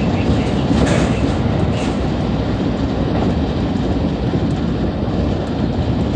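JR West 223 series electric multiple unit running at speed, a steady rumbling noise of wheels on rail with a couple of brief clicks about one and two seconds in.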